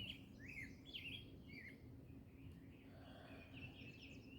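Birds chirping: a quick run of rising and falling whistled notes in the first couple of seconds, then a faint rapid twitter near the end.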